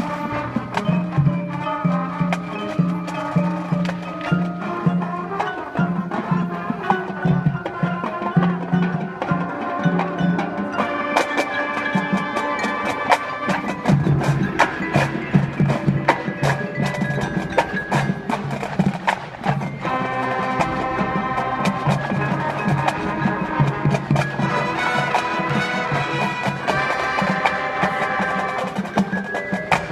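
High school marching band playing, with sustained wind and brass chords over a low bass line and frequent percussion strokes.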